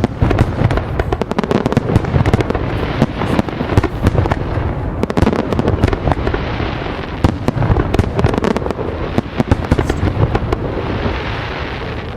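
Fireworks going off: a dense, unbroken run of sharp bangs and crackles, easing slightly near the end.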